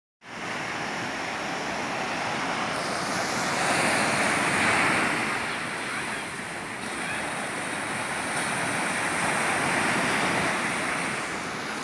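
Sea waves breaking and washing on a beach, a steady surf roar that swells and eases, loudest about four seconds in and again near the ninth to tenth second.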